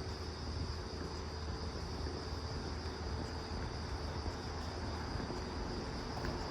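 A steady chorus of insects, crickets or the like, trilling continuously, over a constant low rumble.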